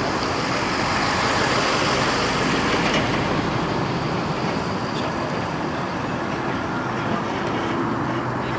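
Steady rushing noise of a running vehicle, with a faint low hum coming in near the end.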